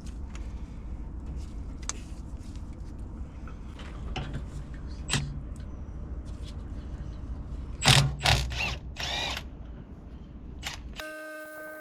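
Metal tools clinking and clanking on engine fuel fittings over a steady low rumble, with a louder cluster of metallic clanks about eight seconds in. Near the end the rumble cuts off abruptly and a steady electrical hum takes over.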